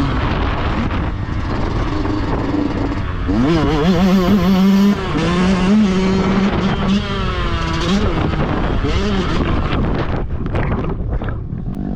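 Yamaha YZ125 two-stroke single-cylinder dirt bike engine revving hard while riding, its pitch rising, wavering and dropping again and again with throttle and gear changes, over a steady rushing noise.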